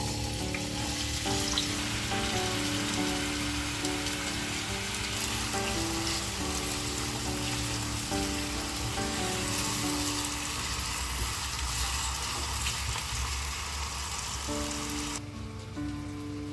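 Food sizzling as it fries in a pan of hot oil, a steady crackling hiss that cuts off abruptly about fifteen seconds in. Soft background music plays throughout.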